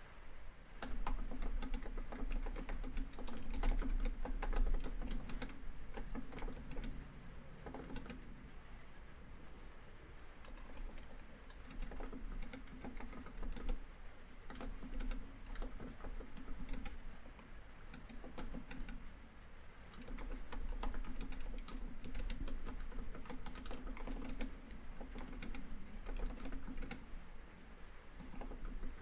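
Laptop keyboard typing in runs of quick keystrokes with short pauses between them. Recorded rainfall on a tin roof runs steadily underneath.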